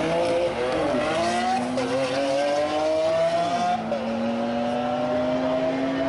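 Sports car engine accelerating hard through the gears: its pitch climbs steadily, drops sharply at an upshift about a second in and again just before four seconds, then climbs again.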